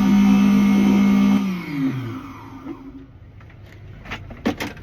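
Electric motor of a key-cutting machine running at a steady pitch, then switching off and falling in pitch as it winds down about two seconds in. A few sharp clicks follow near the end.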